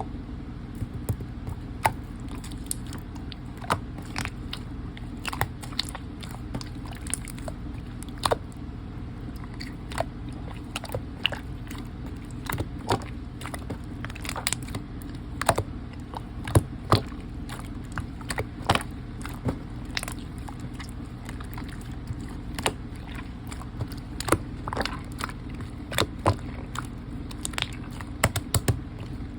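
Slime being kneaded and squeezed by hand as lotion is mixed in, with irregular wet clicks and small pops, several a second, over a steady low hum.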